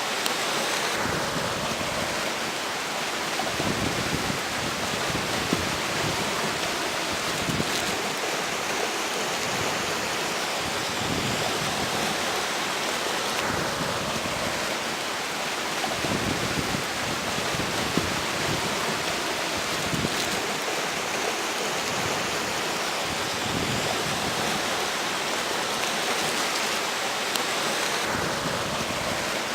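River water flowing with a steady rushing hiss, while strong wind gusts buffet the microphone in irregular low rumbles.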